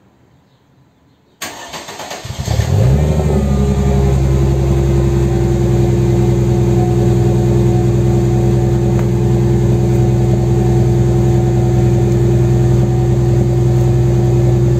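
Mercedes CLK320's twin-spark 3.2-litre V6 cold-started on freshly fitted spark plugs, heard at the exhaust tailpipes. The starter cranks briefly about a second and a half in, the engine catches within a second, revs up and settles into a steady idle.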